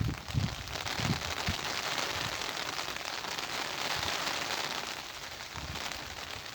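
Rain falling in a garden as a dense, crackly patter of drops. A few low gusts of wind buffet the microphone in the first second or two, and the rain eases slightly toward the end.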